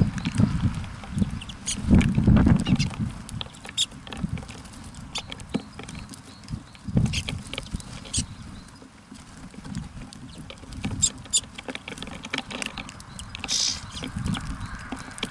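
Small birds at a feeder, with irregular sharp taps and clicks of pecking and landing, a couple of low thumps in the first few seconds, and one short high call near the end.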